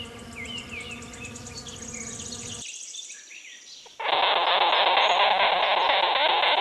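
A wasp buzzing steadily, with small birds chirping behind it, stops about two and a half seconds in. About four seconds in, a much louder harsh, hissing noise starts suddenly: a sugar glider crabbing.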